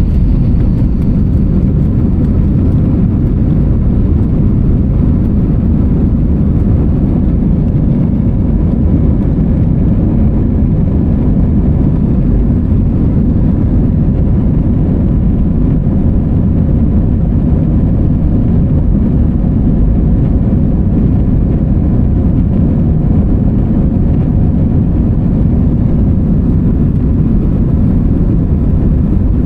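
Steady, even noise of an Airbus A321-200's jet engines and airflow heard inside the passenger cabin, strongest in the low end with a faint steady hum on top.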